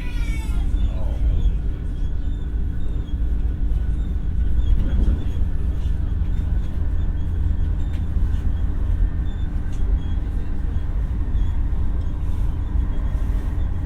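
Interior running noise of an X60 (Alstom Coradia Nordic) electric commuter train: a steady low rumble of wheels on rail with a constant hum from the traction equipment.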